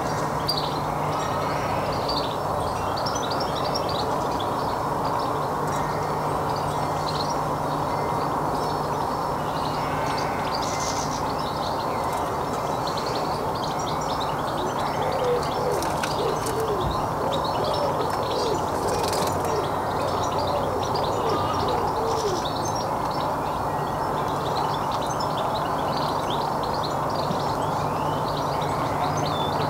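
Small garden birds chirping and singing in short high notes, with a second bird calling in low, wavering notes for several seconds around the middle. A steady background hiss and hum runs underneath.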